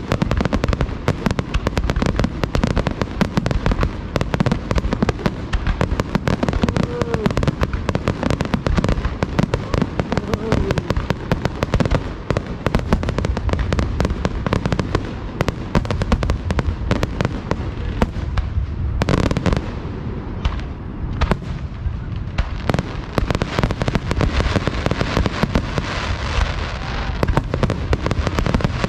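A rapid, unbroken barrage of fireworks shells bursting close by, dense booms and bangs overlapping with crackle, with no break. Near the end, hissing crackle grows among the booms.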